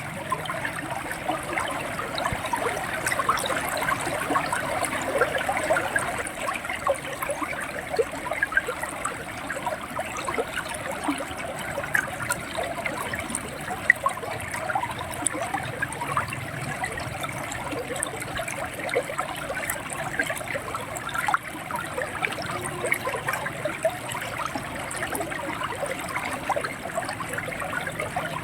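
River water running and gurgling over stones, a steady flow with many small splashes.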